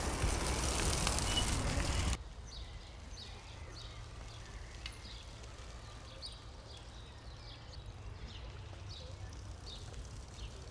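A loud rushing noise for about two seconds that cuts off abruptly, followed by a bird calling over and over with short falling chirps, over a low steady hum.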